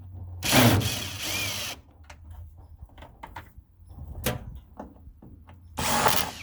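Power drill running in two short bursts, the first about a second and a half long and the second shorter near the end, as screws are backed out of the furnace's sheet-metal panels. Light clicks and knocks of metal being handled come in between.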